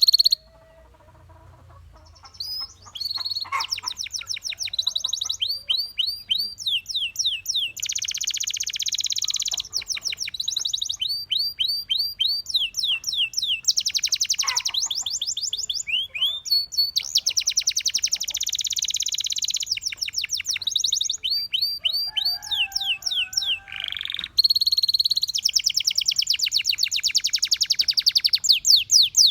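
Domestic canary singing: runs of rapidly repeated notes and fast rolling trills, with a short pause about half a second in before the song resumes.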